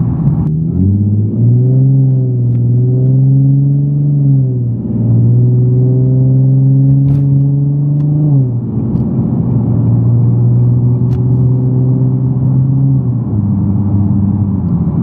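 Nissan 370Z's 3.7-litre V6 engine pulling as the car accelerates, its note rising near the start, dipping briefly and climbing again about five seconds in, then stepping down to a lower steady drone twice, about halfway through and near the end.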